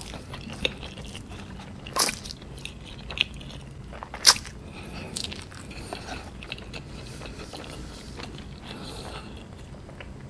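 Close-up eating sounds: a person chewing a mouthful of soft instant ramen noodles, with wet mouth noises and a few sharp clicks, the loudest about two seconds and about four seconds in.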